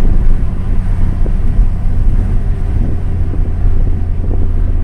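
Ford Fiesta ST's turbocharged 1.6-litre four-cylinder, breathing through a CP-E catback exhaust and catless downpipe, droning steadily at low revs while the car drives, heard from inside the cabin with the window down.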